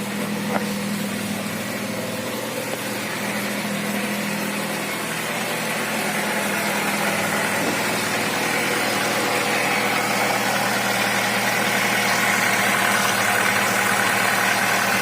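Chevrolet Rezzo's A16DMS four-cylinder petrol engine running steadily, growing gradually louder. The owner says this engine knocks at revs from 1500 and is unsure of the cause.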